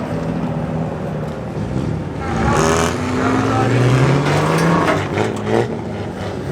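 Classic car engines running and revving as cars leave a car meet, with one engine note rising about halfway through.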